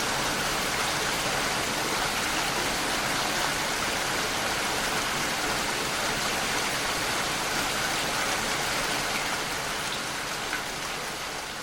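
Steady rain falling, an even hiss of many drops, beginning to fade out near the end.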